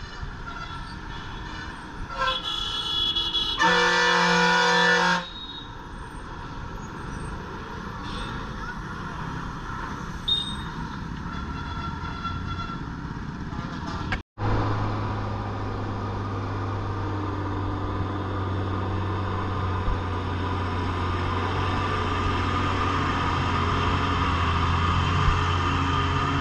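Heavy lorry's diesel engine running on a ghat road, with a vehicle horn honking twice in the first few seconds, the second blast longer. After a sudden brief break, a steady low diesel engine drone slowly grows louder.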